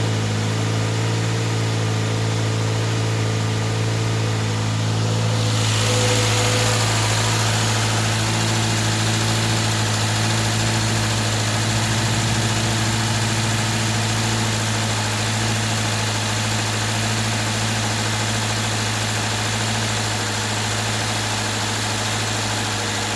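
Subaru Forester's flat-four boxer engine idling steadily. About five seconds in, a broad hiss joins it and the sound stays a little louder from then on.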